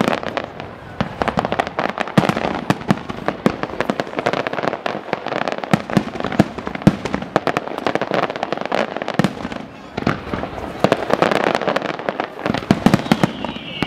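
Aerial firework shells bursting in a rapid, near-continuous string of bangs and crackles, easing briefly about ten seconds in before building again.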